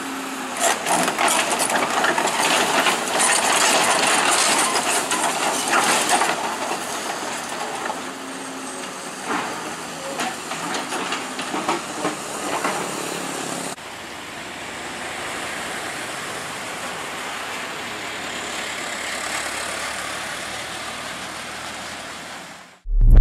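Heavy equipment running: a dense mechanical drone with irregular clanks and knocks through the first half. About fourteen seconds in it cuts abruptly to a steadier, quieter drone.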